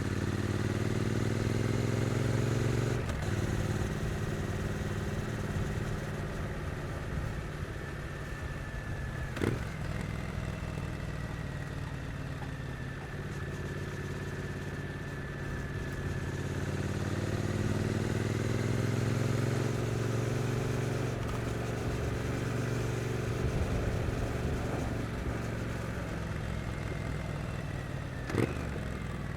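Triumph Street Twin 900's stock parallel-twin engine under way: it pulls up through the revs, drops in pitch at a gear change about three seconds in, holds steady, then climbs again through the middle before easing off. Two sharp knocks, about a third of the way in and near the end.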